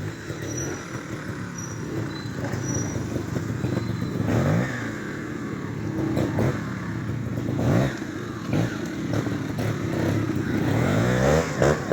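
Trials motorcycle engine revving in short bursts, the throttle blipped up and down over and over, with a few knocks and clatters in between.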